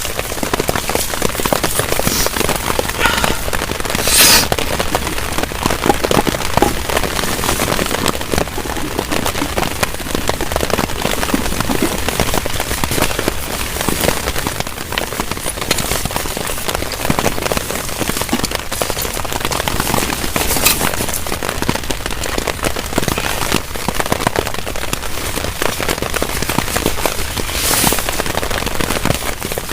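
Heavy rain pattering on a tarp shelter: a dense, steady patter with a few sharper, louder drop hits now and then.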